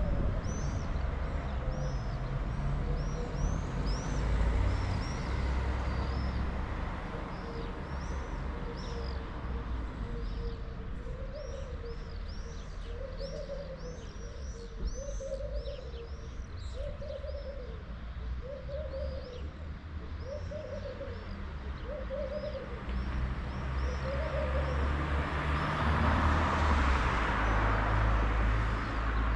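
Small birds chirping with short, high, repeated notes while a dove coos a run of low calls about a second apart. Under them is a steady low rumble, and a rush of noise swells and fades near the end.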